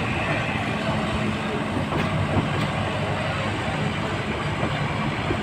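Train running: a steady rumble of a rail car, with a low steady hum and faint clicks.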